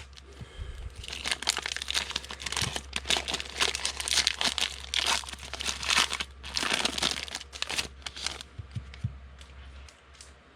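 Plastic wrapping of a trading-card value pack being torn open and crinkled by hand, in irregular crackles that die down near the end.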